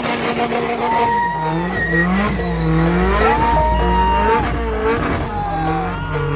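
Several car engines revving over and over, each climbing in pitch, holding near the top and dropping back, over a heavy low rumble that swells in the middle.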